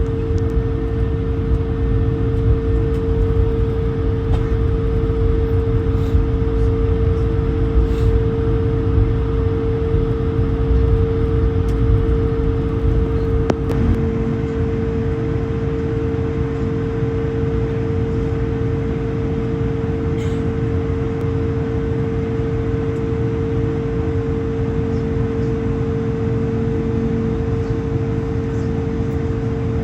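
Cabin noise of an Airbus A220-100 taxiing after landing, its Pratt & Whitney PW1500G geared turbofans at idle. A steady low rumble with a constant hum that eases slightly about halfway through.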